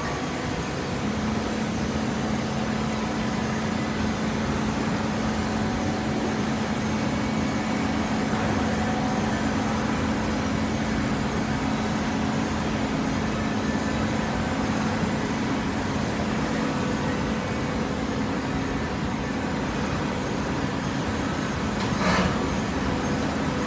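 Hydraulic cardboard baler running: a steady machine noise with a constant hum that sets in about a second in, and a single knock near the end.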